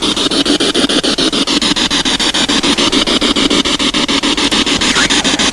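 Ghost-hunting spirit box sweeping through radio stations: loud, choppy static cut into about ten rapid clicks a second, with brief fragments of radio sound between the clicks.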